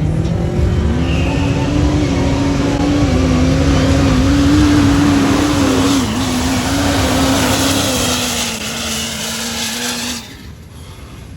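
Twin-turbo Duramax V8 diesel in a mega truck running hard at high revs, its pitch held nearly steady for about ten seconds. The sound drops away abruptly near the end.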